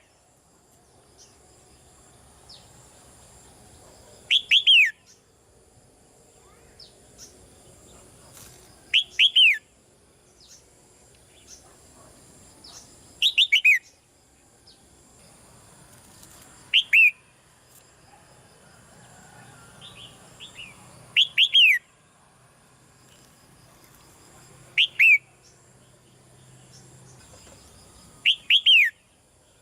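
Red-whiskered bulbul giving short, clear calls, each a quick pair of notes sliding downward, repeated about every four seconds, with fainter chirps in between.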